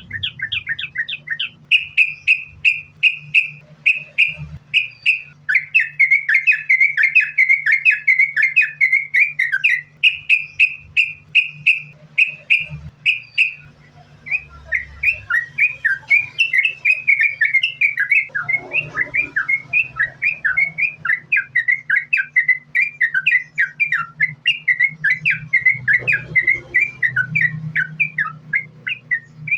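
Yellow-vented bulbul singing a long unbroken run of quick chattering, whistled notes, several a second, with a brief lull about halfway through.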